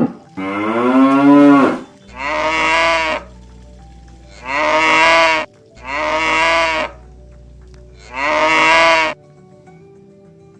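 Cattle mooing five times. The first moo is about a second and a half long and rises, then falls in pitch; four shorter, near-identical moos follow, each about a second long, with gaps of one to two seconds between them.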